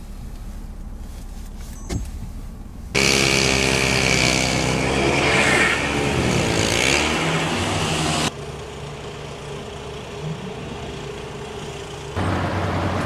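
Motor vehicle engines running, heard across several clips that cut abruptly from one to the next. The loudest stretch, from about three to eight seconds in, has a wavering engine note with a hiss over it.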